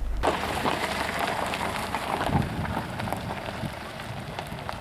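Steady rain falling, with many small drop hits. It comes in suddenly just after the start and eases slightly toward the end.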